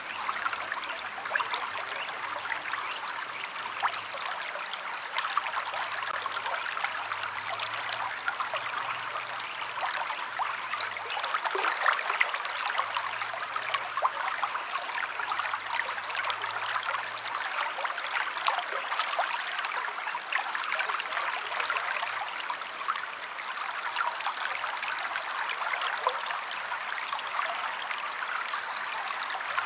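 River water flowing and splashing: a steady rush dotted with many small splashes and trickles.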